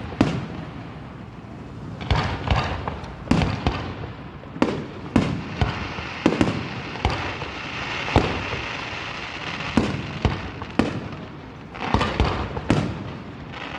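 Fireworks show: aerial shells bursting in a string of sharp booms and pops, about one a second, each trailing off in an echo.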